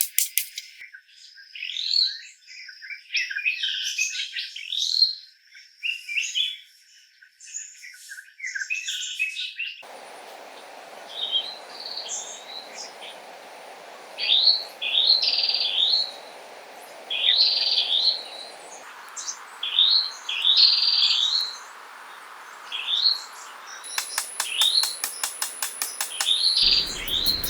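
Wild birds chirping and singing in short repeated phrases. About a third of the way in, a steady rushing background noise joins them. Near the end a fast, even ticking rhythm comes in.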